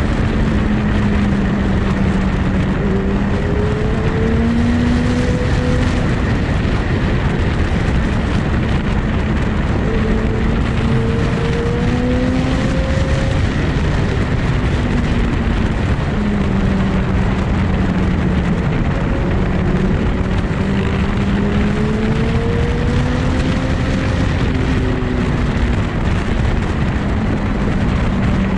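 Motorcycle riding at a steady cruise: a loud, even rush of wind and road noise over the engine note, which drifts slowly up and down with the throttle.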